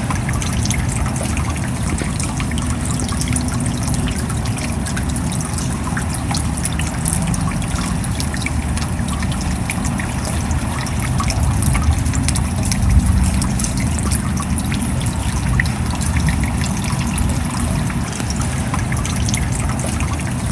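Steady rain with water trickling and dripping, many separate drops ticking sharply over a continuous wash of noise. It swells slightly about two-thirds of the way through.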